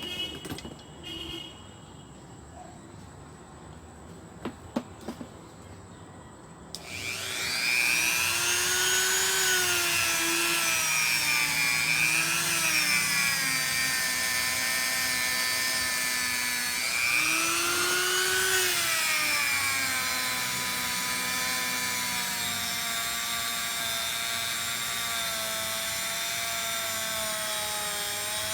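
A few light clicks, then a handheld power tool starts about a quarter of the way in and runs loudly. Its motor pitch rises and dips several times as it is worked against the part, then settles steady. It is cleaning rust off the small engine's flywheel.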